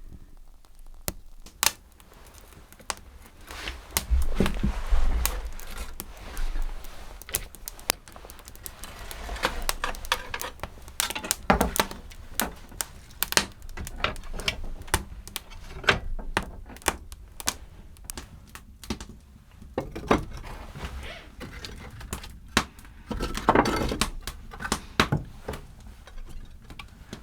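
Irregular clicks, taps and knocks of objects being handled, with stretches of rustling and a few louder thunks.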